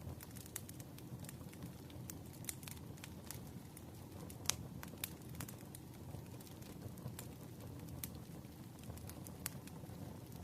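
Fire crackling, with irregular sharp pops scattered through it, the loudest about four and a half seconds in, over a soft, steady background of rain.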